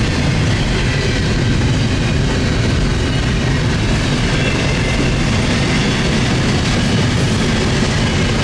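CN intermodal freight train's cars rolling past at steady speed: a continuous rumble of steel wheels on the rails with clickety-clack over the rail joints.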